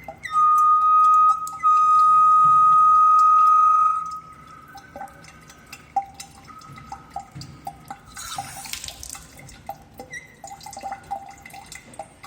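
Dripping water tap letting out a loud, steady high-pitched whistle for the first few seconds, with a short break, before it fades about four seconds in. Drips fall steadily throughout, and a brief hiss of water comes around eight seconds in. The uploader thinks an aged, hardened rubber washer or a faulty ceramic valve inside the tap could be the cause.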